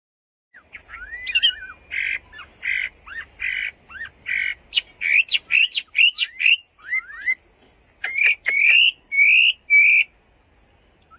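Chinese hwamei (Garrulax canorus) singing loudly. It sings a series of rasping repeated notes, then quick rising slurred whistles, then several longer whistled notes, and stops about ten seconds in.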